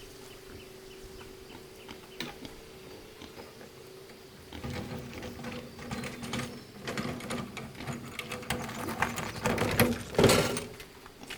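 Rapid mechanical rattling and clicking over a steady hum, starting about halfway through and loudest in a burst near the end.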